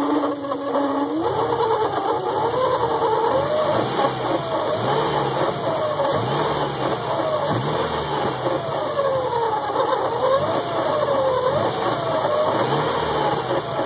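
Subaru Impreza flat-four engine running with an unidentified new whining noise that slides up and down in pitch over and over, about once a second, like a drowning puppy. The whine holds one steady note until about a second in.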